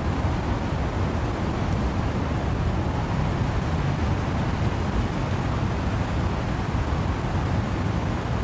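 Wind and rain in trees: a steady, even rush of noise, heaviest in the low end, with no single drops or gusts standing out.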